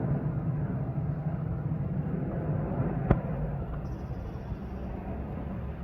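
Low, steady vehicle rumble, slowly fading, with a single sharp click about three seconds in.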